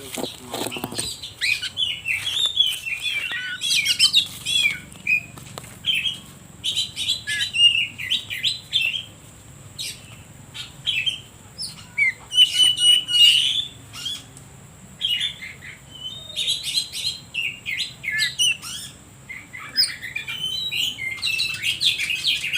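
Oriental magpie-robin (kacer) singing a long, varied song of rapid whistles, trills and chattering notes in short phrases with brief pauses.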